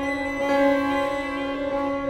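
Contemporary classical chamber music for solo bassoon and ensemble: several instruments sustain long held notes, some sliding slightly in pitch, with a swell about half a second in.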